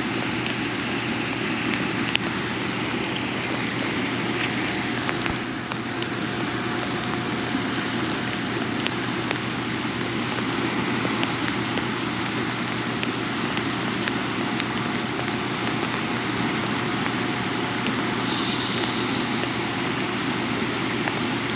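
Steady rushing of fast river water below a dam spillway, mixed with rain falling, as one even wash of noise. A faint steady hum sits underneath.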